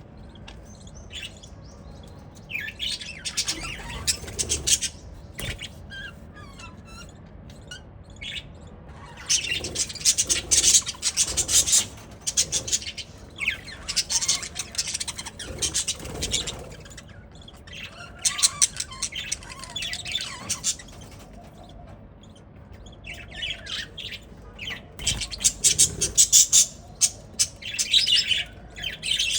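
A flock of budgerigars chattering and chirping in bouts of rapid, high chirps a few seconds long, with quieter stretches between; the chatter is loudest near the end.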